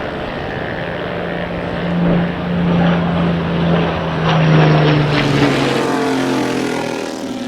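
Motorcycle engines passing at speed. One engine note builds to its loudest about four and a half seconds in and drops in pitch as the bike goes by, and a higher-pitched engine note follows and falls away near the end.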